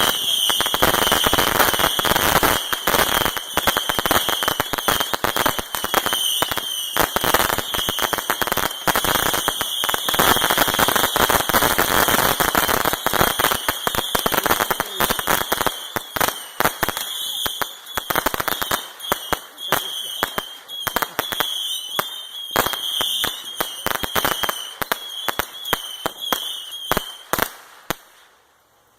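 Consumer firework going off: a dense, rapid crackle over a steady high whistle. The crackles thin out about halfway through and stop a second before the end.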